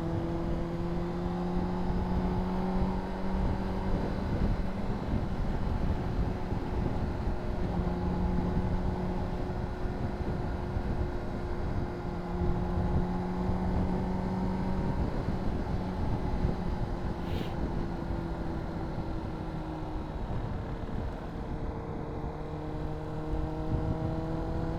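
Honda CBR600RR inline-four engine running at a steady engine speed under the rider, over a rumble of wind and road noise. The engine note dips slightly about twenty seconds in, then rises again near the end.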